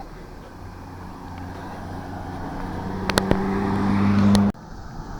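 Motor vehicle engine humming at a steady pitch and growing steadily louder, with a couple of sharp clicks, then cutting off abruptly about four and a half seconds in.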